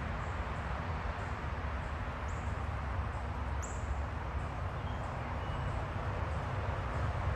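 A few short, faint, high-pitched chirps from small backyard birds over a steady low rumble of background noise.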